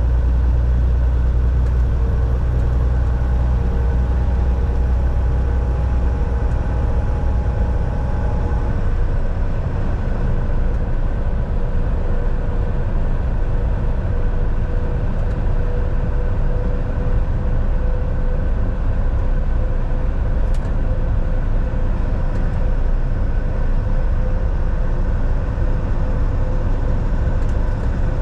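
Volvo VNL 760 semi truck heard from inside the cab while driving: a steady diesel engine and road rumble with a few faint steady whining tones above it. The deepest rumble eases after the first several seconds.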